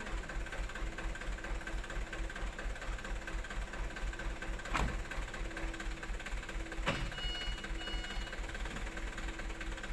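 Super HDX dump truck's diesel engine running with a steady low throb. Two sharp knocks come about 5 and 7 seconds in, and two short high beeps follow soon after the second knock.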